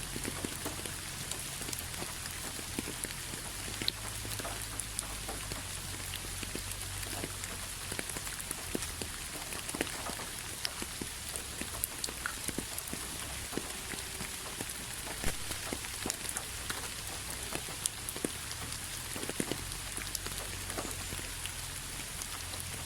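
Steady rain falling on a hard surface, an even hiss dotted with many sharp individual drop ticks, over a low, steady rumble.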